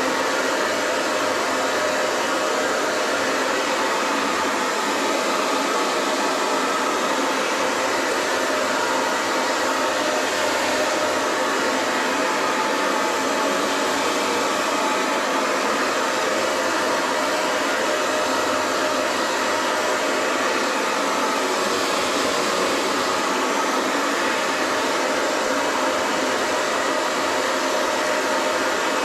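Hair dryer blowing steadily: a constant, even rush of air that does not change.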